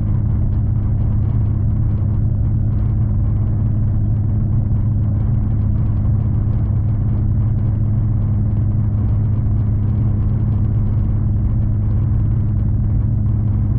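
Steady rumble and low drone of a V/Line regional train heard from inside the carriage while it is moving, with a constant low hum under the running noise.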